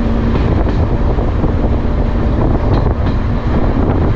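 Heritage diesel multiple unit running along the line, heard from an open carriage window: a loud, steady rumble of the train on the track with wind on the microphone and a faint steady hum.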